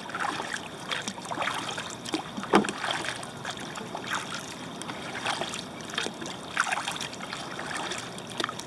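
Kayak paddle strokes: the blades dip and splash in the water and drip in an uneven rhythm, with one sharper splash or knock about two and a half seconds in.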